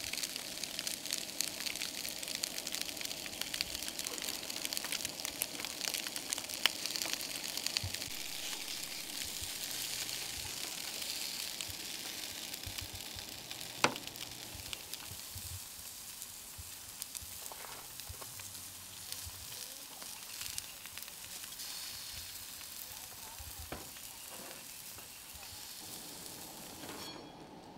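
Sliced red potatoes frying in a skillet on a camp stove: a steady sizzle full of fine crackles that slowly grows quieter, with one sharp click about halfway through.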